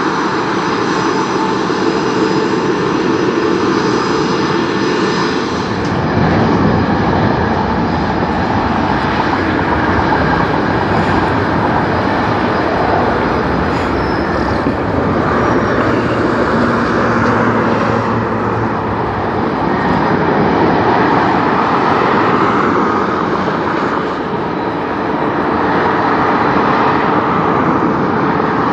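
Jet airliner engines running at high power during a takeoff: a loud, steady rush of noise with high whining tones for the first several seconds, changing abruptly about six seconds in to a broader rush that swells and eases.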